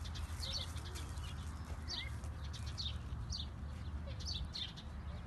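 Small birds chirping, a series of short high chirps every half second to a second, over a steady low rumble.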